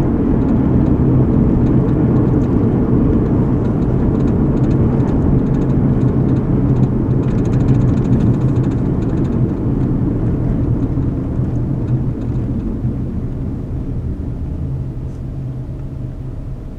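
Car driving, heard from inside the cabin: a steady low rumble of tyres on the road and the engine running, which gradually gets quieter over the last few seconds.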